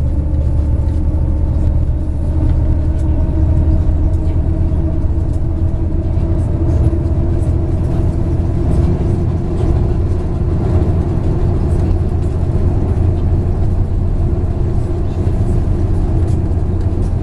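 MAZ 103.562 bus under way, heard from inside: a steady low engine drone with a faint whine that rises a little in pitch over the first several seconds and then holds, with light scattered rattles.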